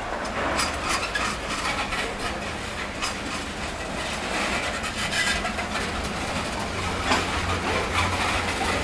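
Freight train gondola cars rolling slowly past, steel wheels clicking and knocking over rail joints now and then over a low rumble.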